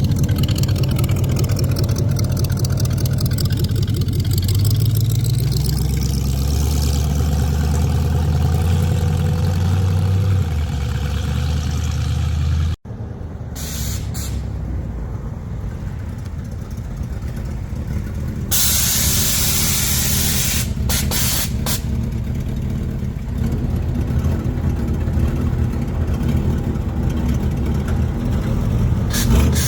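Car engines running deep and loud as cars pull away, their pitch stepping up and down. About a third of the way in, the sound cuts abruptly to a lighter engine sound. Later a loud hiss of air lasts about three seconds, followed by a few short hisses.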